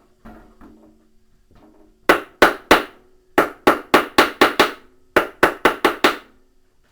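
Hammer blows on a washing machine part during reassembly of the drum and tub, fifteen sharp strikes in three quick runs: three, then seven, then five, about three a second.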